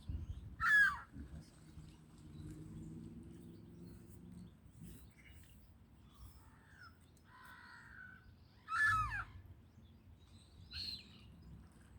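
Harsh bird calls: two loud squawks that fall in pitch, about a second in and about nine seconds in, with a few fainter calls between.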